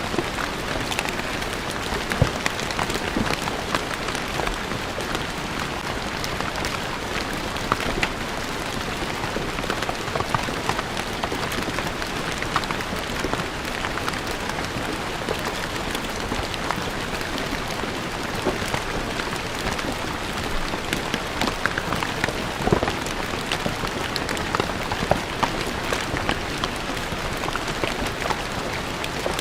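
Steady rain falling on stone paving, an even hiss with many individual drops ticking and splattering on the hard surface.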